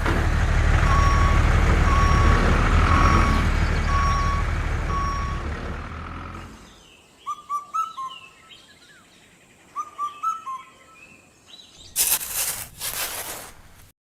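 Truck engine running with a reversing alarm beeping five times about a second apart; the engine fades out about six seconds in. Birds then chirp in short rising calls, and near the end there are a couple of loud noisy bursts.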